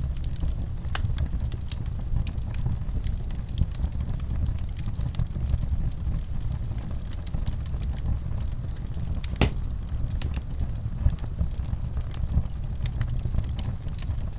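Wood fire crackling: scattered sharp pops and ticks over a steady low rumble, with one louder pop about two-thirds of the way through.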